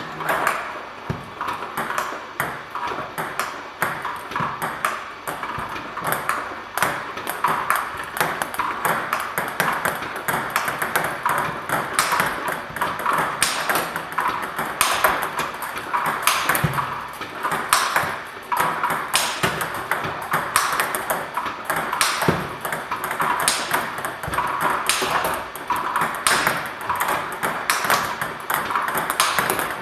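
Table tennis ball struck over and over by a bat with a TSP Hino-Carbon blade and bouncing on the table in a continuous rally. The sharp clicks come several times a second.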